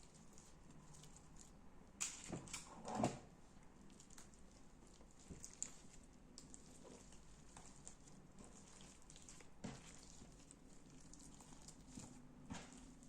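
Hands working slime, giving sticky clicks and pops: a quick cluster about two to three seconds in, then scattered single ones.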